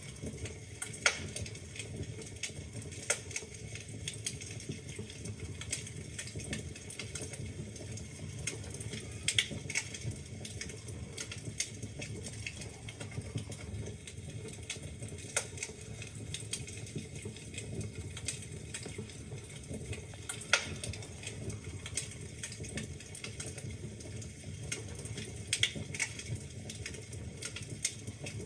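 Wood fire burning in a fireplace: a steady low hiss and rumble of flames with irregular crackles and sharp pops from the burning logs, a few louder snaps among them.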